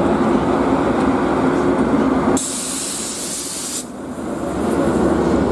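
Train running through a station with a low rumble and a steady hum. About two and a half seconds in, the rumble drops away under a sharp burst of hissing air that lasts about a second and a half, then stops abruptly, and the train rumble builds back.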